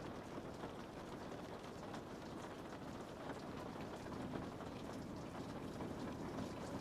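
Rain falling steadily on a window pane: a continuous patter with many small drop ticks.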